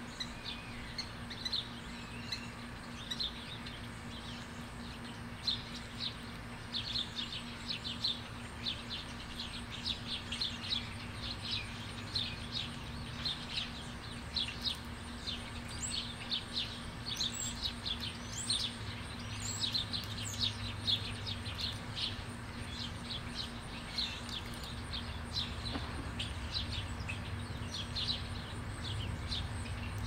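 Small birds chirping: a rapid run of short, high chirps, several a second, over a steady low hum.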